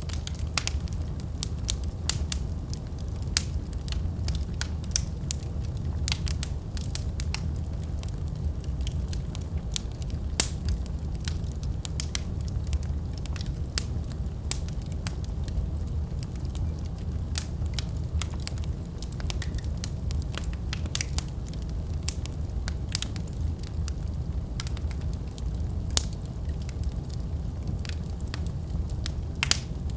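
Fire burning in a fireplace, crackling with frequent sharp, irregular pops over a steady low rumble of flame.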